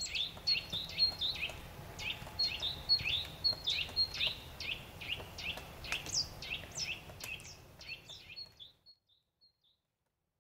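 Birdsong: many quick chirps sweeping downward, mixed with short high notes, over a faint low hum, fading out about nine seconds in.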